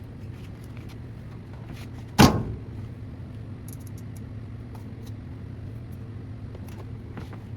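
Washing machine humming steadily while a load is started, with one sharp knock about two seconds in.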